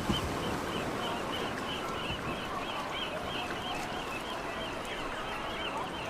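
Outdoor ambience: steady background noise with a high chirp repeating about two to three times a second.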